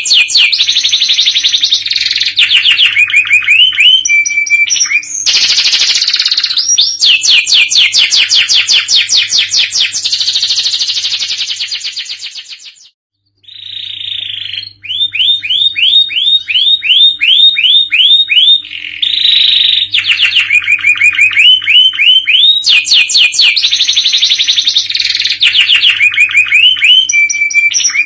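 Domestic canary singing continuously in long, rapid trills and runs of quick repeated rising notes, high-pitched and loud. The song breaks off for about a second a little before the middle, then starts again.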